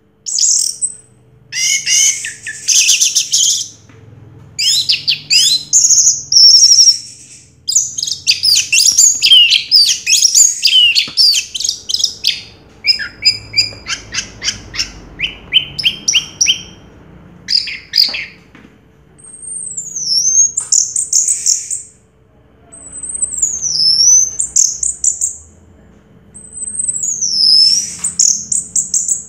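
Orange-headed thrush singing: bursts of fast, varied twittering phrases, then, from about two-thirds of the way in, three high swooping whistles that dip and rise again, a few seconds apart.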